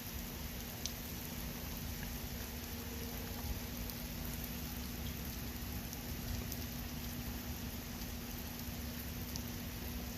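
Steady rain falling as a thunderstorm dies down, with scattered drop ticks, and a steady low hum from an oscillating fan.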